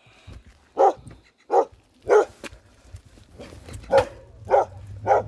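A dog barking repeatedly in short, separate barks, about six in all, spaced half a second to a second apart. The barking is hostile: the dog is very angry.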